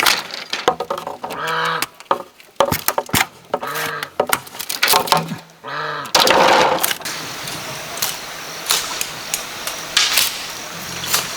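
Ducks quacking in short repeated calls through the first half. After that comes a scattered run of sharp knocks and taps.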